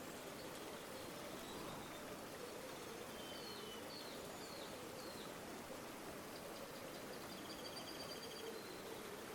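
River water flowing steadily, with small birds chirping over it: a few short chirps a few seconds in and a rapid trill near the end.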